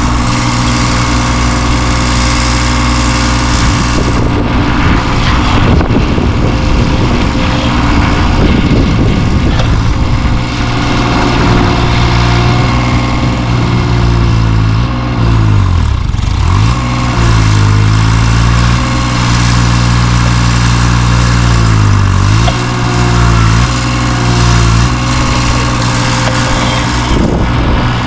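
Engine of a work machine running steadily, labouring twice, about halfway through and again near the three-quarter mark, its pitch dropping and then recovering as it takes load.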